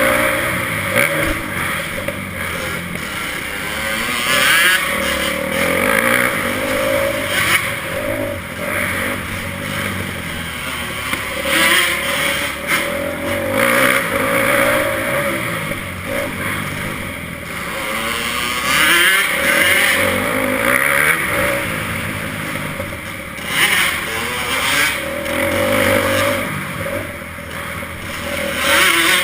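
Motocross bike engine running hard, revving up and falling back again and again.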